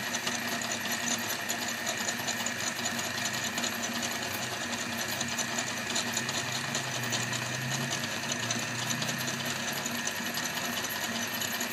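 Meat grinder running steadily as it grinds meringue cookies, a continuous fast mechanical whirr.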